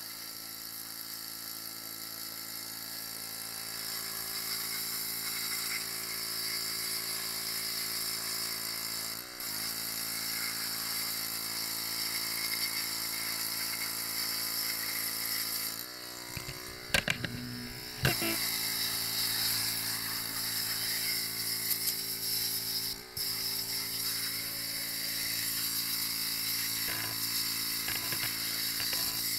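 Electric pressure washer (jet wash) running with a steady motor hum under the hiss of its water spray, cleaning off an engine. The motor briefly stops and starts again a few times, with a cluster of clicks and knocks about 17 seconds in.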